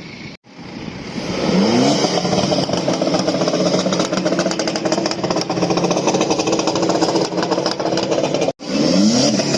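A car engine revved hard: its pitch climbs quickly, then holds loud and high for several seconds. After a brief break near the end it climbs again.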